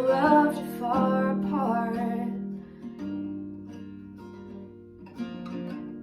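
Acoustic guitar strumming under the held last note of a sung line, which ends about two seconds in; the guitar then plays on alone, more softly, with a few more strums.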